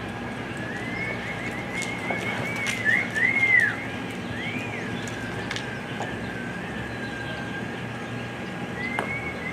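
A horse whinnying in strings of rising-and-falling notes, loudest about three seconds in and again near the end, with scattered sharp clicks and a steady faint high tone underneath.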